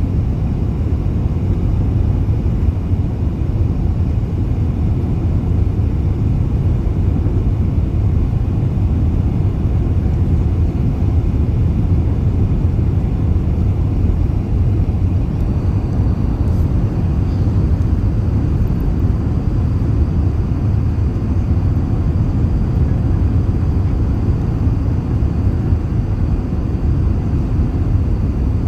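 Steady low rumble of an Airbus A380 airliner, with a faint high whine that comes in about halfway through.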